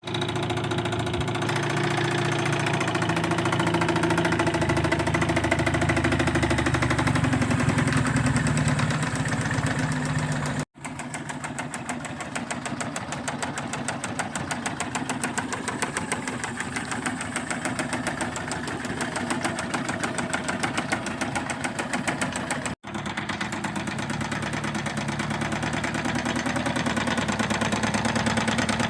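A 2002 25-horsepower engine running steadily with a fast, even knocking rhythm, the noise the owner is trying to diagnose. The sound cuts out abruptly twice, about a third and about three quarters of the way through, and the middle stretch is quieter.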